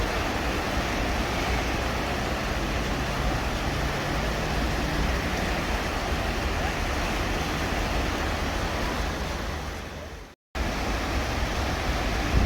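Steady rushing noise of heavy rain and running rainwater. It drops out suddenly for a moment about ten seconds in, then comes straight back.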